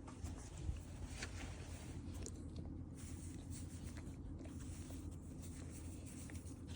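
Quiet room tone: a steady low hum with faint scattered rustles and clicks, and one soft thump under a second in.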